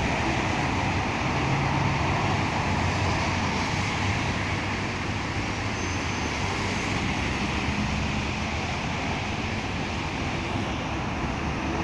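Steady rain falling, a constant hiss, with the low hum of engines or traffic beneath it.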